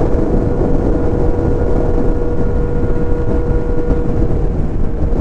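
2023 Kawasaki Z900's inline-four engine running at a steady cruising speed, holding one even pitch, under heavy wind and road rumble on the microphone.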